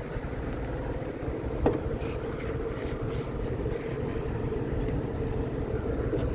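MG ZT's 2.5-litre KV6 V6 engine running steadily on test, a low rumble with a steady hum over it. There is a single sharp click about one and a half seconds in.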